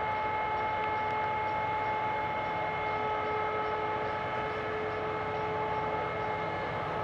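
Harvest machinery running steadily: a constant high whine over a broad mechanical rumble.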